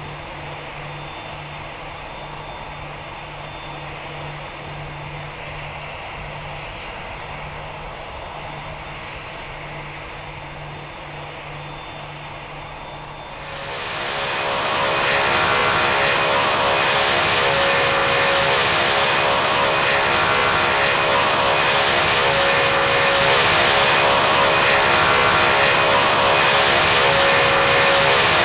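Jet airliner engines running steadily, then about halfway through spooling up to takeoff thrust: the sound rises over a couple of seconds to a much louder, steady level with a hum of several tones.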